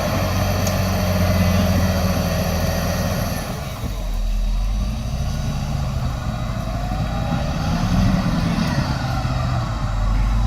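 Diesel engine of heavy earthmoving equipment running under working load. Its note dips a little before four seconds in, then comes back deeper and heavier, rising and falling in pitch.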